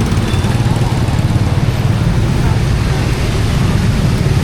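Busy street ambience: a steady low rumble of vehicle engines running, with voices of people around.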